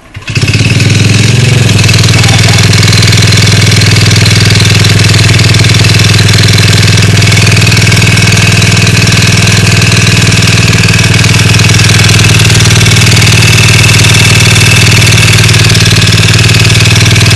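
Big-bore GY6 single-cylinder four-stroke engine in a Honda Ruckus, loud and close, catching about half a second in and then running steadily with a rapid knock, a sign of trouble in the engine.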